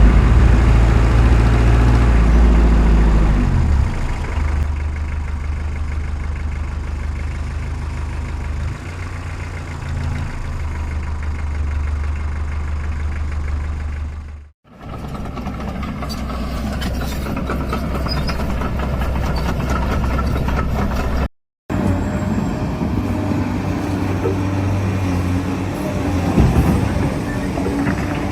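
Steady low engine rumble of heavy construction machinery, idling and working. It dips out about halfway through and cuts off for a moment about three-quarters of the way through.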